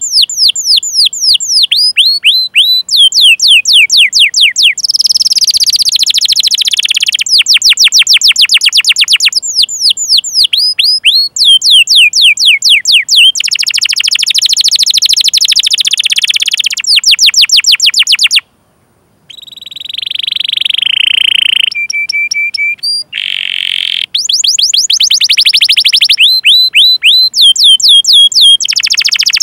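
Domestic canary singing a long song: fast runs of sharp, falling 'cuit cuit' chirps alternate with rolling trills. The song breaks off for under a second about two-thirds of the way in, then resumes.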